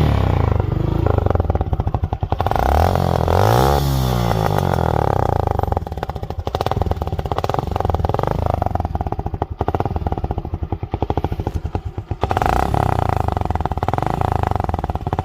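Suzuki Gixxer SF 150's single-cylinder engine running through a stock silencer with its inner pipes cut out, giving a loud, open exhaust note. It runs with a pulsing beat, is revved up and back down about three to four seconds in, and gets louder again near the end.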